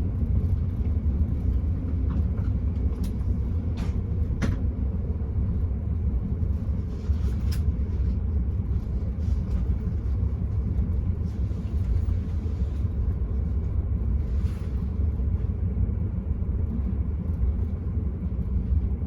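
Steady low rumble of a moving Enterprise passenger train heard from inside the carriage, with a few faint clicks.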